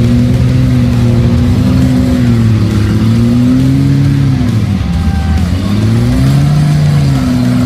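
A mud bog truck's engine revving loudly, its pitch climbing and dropping several times as the throttle is worked on and off.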